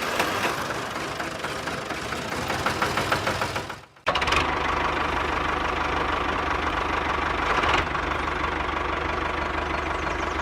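A motor running with a fast rattle. It breaks off for a moment about four seconds in, then runs on more steadily with a faint whine.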